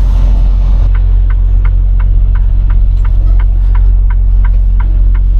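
Semi truck's engine drone in the cab, with the turn-signal indicator clicking evenly, about three clicks a second, starting about a second in.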